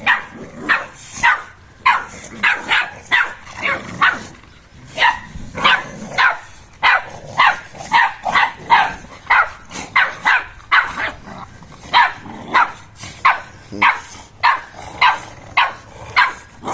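Dogs barking over and over in rough play, short sharp barks coming about two or three a second with a brief lull partway through.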